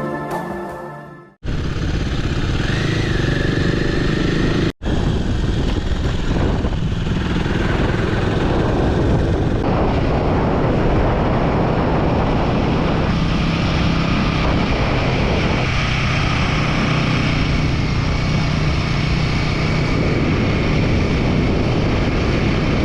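Background music fading out over the first second and a half, then, after an abrupt cut, a motorcycle running steadily on the road with a constant rush of noise over a low engine tone.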